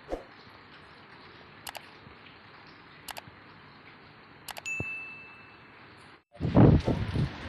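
Steady rain hiss with a few sharp clicks and a short ringing ding about two-thirds of the way through. Near the end the sound drops out for a moment and a much louder low rumble takes over.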